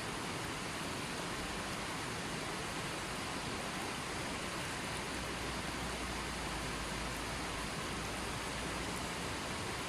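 Running water flowing steadily, an even unbroken rush with no drips or splashes standing out.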